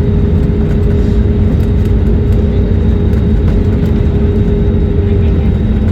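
Steady engine drone and air rush inside an airliner cabin, a loud unbroken rumble with a steady hum tone over it.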